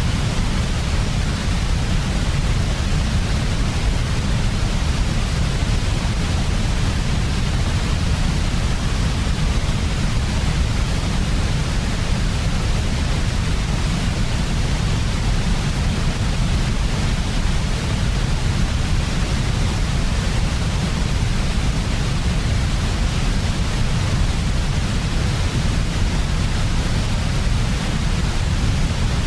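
Steady synthetic sleep noise, sold as white noise but weighted toward the low end: an even hiss over a strong, deep rumble, unchanging throughout.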